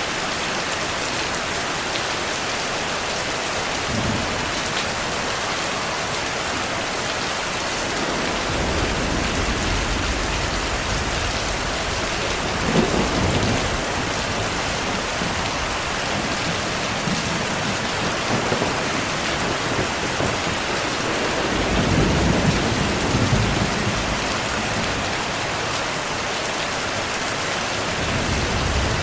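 Heavy rain falling steadily as a constant hiss, with low rumbles of distant thunder. One rumble builds about a third of the way through and peaks in a sharper clap, and a second longer rumble comes about three-quarters of the way through.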